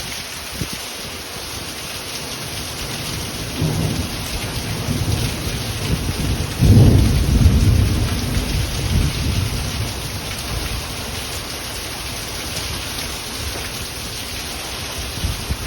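Heavy rain falling steadily through a thunderstorm. A low rumble of thunder builds about four seconds in, peaks suddenly a few seconds later and rolls away.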